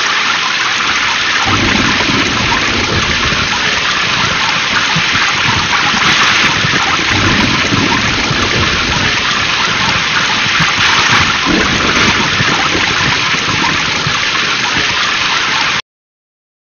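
Heavy rain with low rumbles of thunder swelling several times under a steady hiss, cutting off abruptly near the end.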